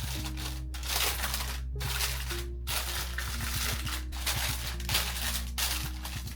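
A run of crinkling, rustling handling noises, about one a second, over soft background music with long held notes; the rustling stops near the end.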